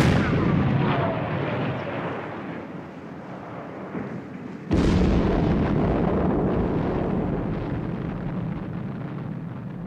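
Two explosive blasting charges detonating in rock, one right at the start and another just under five seconds in. Each is a sharp crack followed by a long, slowly fading rumble.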